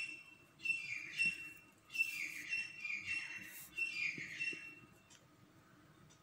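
A bird calling: about five short calls a second or so apart, each a clear note that slides down in pitch.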